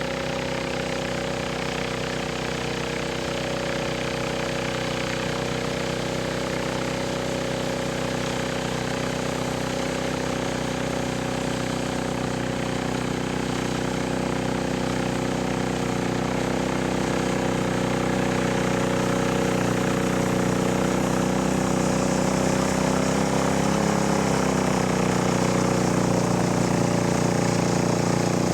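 Yanmar JE-80HE snowblower engine running steadily, now running properly on its replacement carburettor. It grows gradually louder, with a brief dip and wobble in pitch about three-quarters of the way through.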